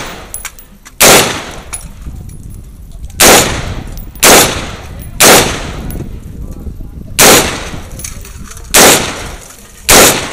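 Semi-automatic gunfire: seven single shots at uneven intervals of one to two seconds, each a sharp crack with an echoing tail.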